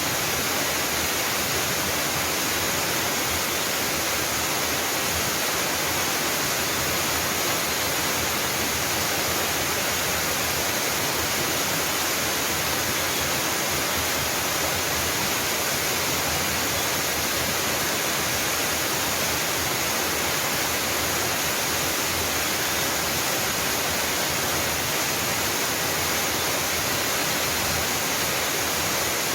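A small mountain waterfall pouring steadily, a constant even rush of falling water, bright and hissy.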